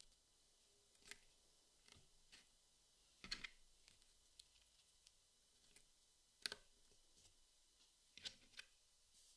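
Jigsaw puzzle pieces clicking and tapping as they are handled and set down, in scattered light clicks with two louder taps, one about a third of the way in and one about two thirds in.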